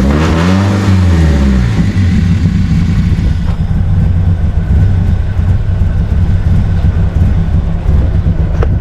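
BMW E30 engine revved once near the start, its pitch rising and falling back, then running steadily at low revs. The car has a faulty idle air control valve that gives it idle trouble.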